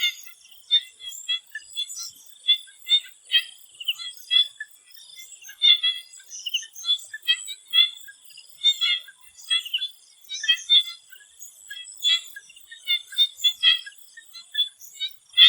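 A chorus of swamp frogs calling: many short, high chirps overlapping at an irregular pace, several a second, over a steady thin high tone.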